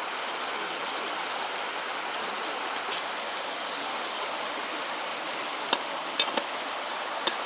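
Food sizzling steadily over a campfire, with a few sharp crackles near the end.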